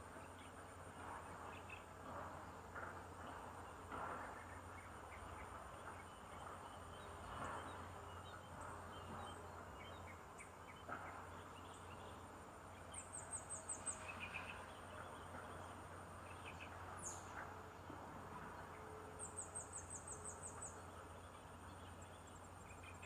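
Outdoor nature ambience: a steady high insect drone with two quick runs of high, falling chirps, about 13 and 19 seconds in, over faint rustling and clicks.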